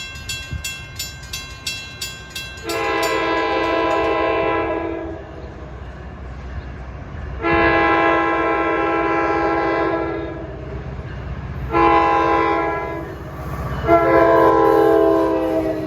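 NJ Transit PL42AC diesel locomotive's K5LA air horn sounding the grade-crossing signal: two long blasts, a short one, then a long one whose pitch drops slightly near the end. A crossing bell rings steadily at the start and stops after about a second and a half.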